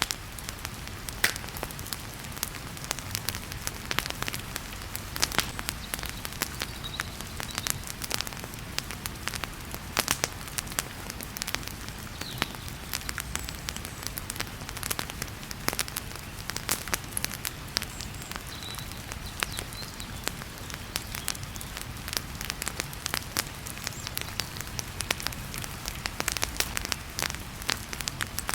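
Wood fire crackling with frequent, irregular sharp pops, over a steady hiss of heavy rain.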